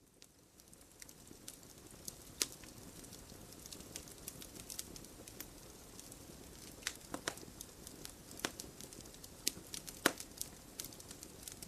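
Wood campfire crackling: irregular sharp pops and snaps over a steady low hiss of burning wood, fading in over the first couple of seconds.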